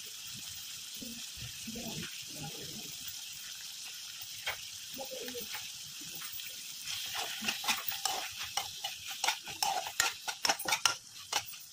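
Onions, tomatoes and green chillies sizzling in hot oil in a nonstick kadai. From about seven seconds in, the vegetables are stirred, with a quick run of clicks and scrapes of the utensil against the pan.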